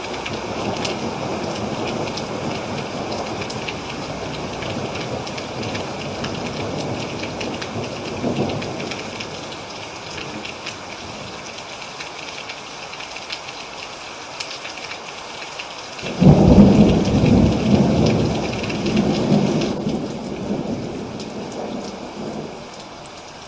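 Steady rain falling, with rolling thunder: a low rumble through the first third, then a sudden loud thunderclap about two-thirds of the way in that rumbles on for several seconds and fades.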